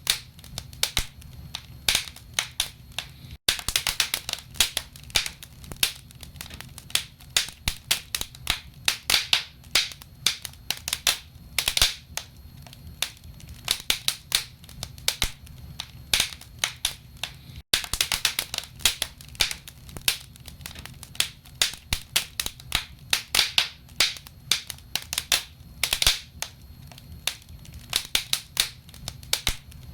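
Wood fire crackling in a fireplace: a dense, irregular run of sharp pops and snaps, several a second, over a faint steady low rumble.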